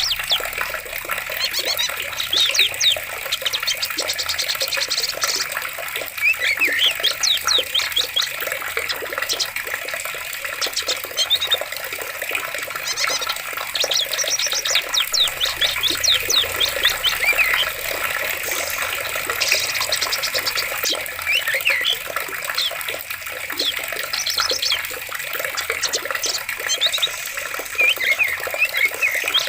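Flowing water running steadily, with birds calling over it in repeated bursts of quick, high chirps.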